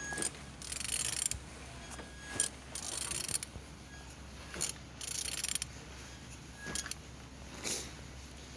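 Removed car engine being turned over by hand, in about four mechanical strokes roughly two seconds apart, with clicking and rubbing from the turning parts. It turns freely, the sign of an engine that is not seized.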